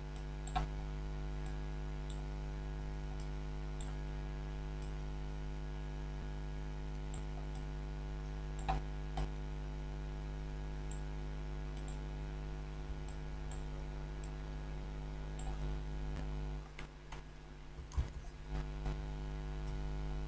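Steady electrical mains hum on the microphone, with a few scattered clicks of a computer mouse and keyboard. The hum drops out near the end.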